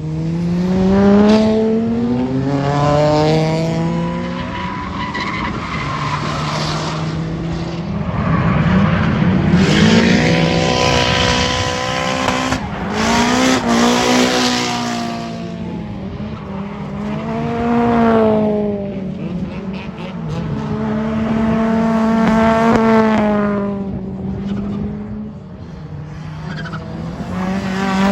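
Drift cars on a circuit, engines revving high and dropping off again and again, with tyres squealing as the cars slide through the corners.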